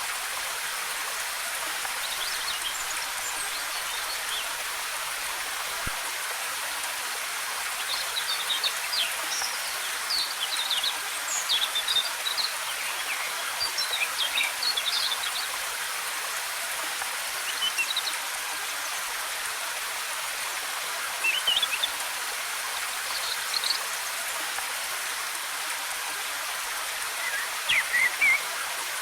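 Steady rush of a waterfall with forest birds chirping over it, in short clusters of calls that come and go, busiest in the middle and again near the end.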